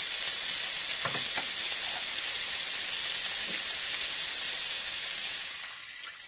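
Chicken and carrots frying in an electric skillet: a steady sizzle, with two light knocks about a second in. The sizzle dies down near the end as water is poured into the pan.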